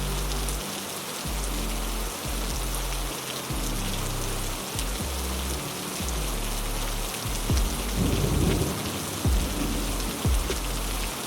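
Heavy rain falling steadily, with low rumbling thunder underneath that swells louder about eight seconds in.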